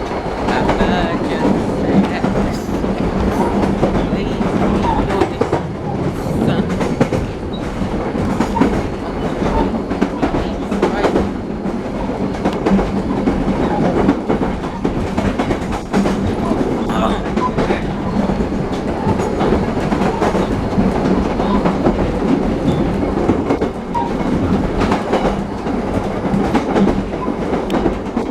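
Cement mixer running with a washing machine tumbling inside its drum: continuous clattering and banging over a steady motor hum.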